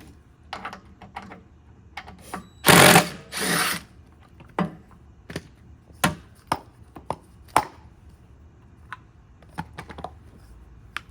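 Scattered clicks and knocks of tools and mower wheel parts being handled while wheels are fitted to a lawn mower. About three seconds in come two short, loud bursts of noise, each about half a second long.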